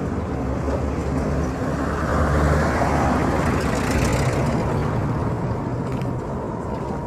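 Road traffic: engines running with a low rumble, and a vehicle passing close, swelling to its loudest about three to four seconds in and then fading.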